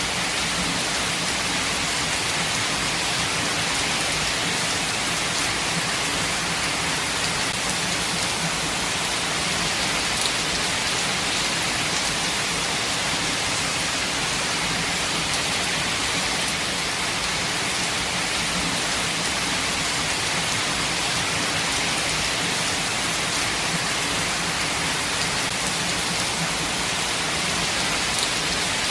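Steady rainfall on foliage, an even hiss of many drops with no let-up, a few individual drops ticking out now and then.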